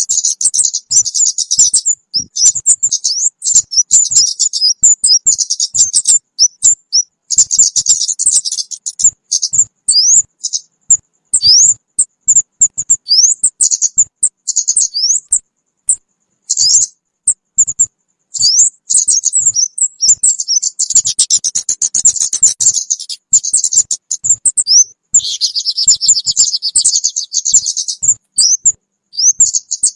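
Bird-trapping lure recording of kemade bird calls: rapid high-pitched chirps and short rising whistles in dense chattering runs with brief gaps, with a harsher buzzing run near the end.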